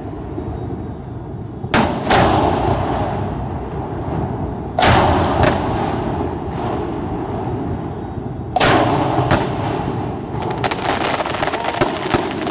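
Aerial firework shells bursting overhead with sharp bangs, in close pairs about two seconds in, near five seconds and near nine seconds, each followed by a rolling echo. Near the end comes a run of quick crackling pops from crackle stars.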